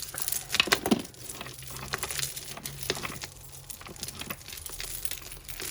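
Knotted black glass bead necklaces clicking and rattling as they are handled and pulled at, with irregular small clicks and some plastic crinkling.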